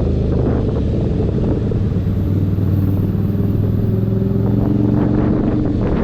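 Keeway SCR 250's V-twin engine running through a Racefit free-flow exhaust, holding a steady, fairly even pitch.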